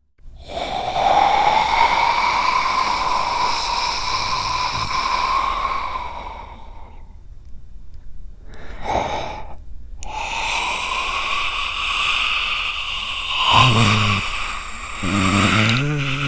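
A man's voice making creature sounds: two long, rasping, breathy exhalations of about six seconds each, with a short breath between them. Near the end a low, wavering, voiced growl comes in.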